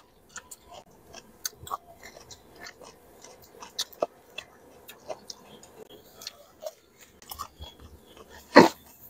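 Close-up eating of a raw cucumber: wet chewing with many small crunches and mouth clicks, and one loud crisp crunching bite near the end.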